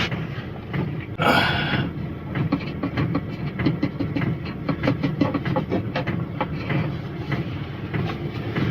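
Fuel glugging and splashing as it is poured from a can through a funnel into a heater's fuel tank, a rapid uneven gurgle with a louder rush about a second in.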